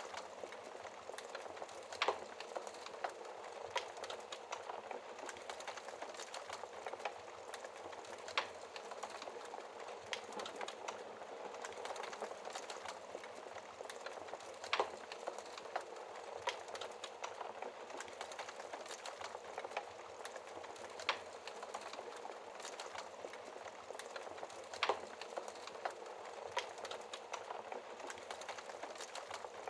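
Wood fire burning in a fireplace, crackling steadily over a low hiss, with a sharper pop every few seconds.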